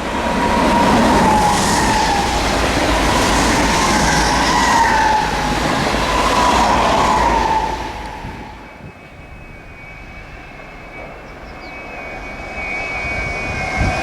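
A passenger train runs loudly past the station platform, its wheels and running gear giving a rushing noise with a wavering high ringing. It fades away about eight seconds in. A second train then approaches with a steady high whine, growing louder toward the end.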